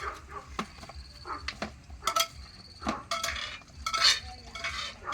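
Light clinks and knocks of dishes or utensils, with short animal calls among them.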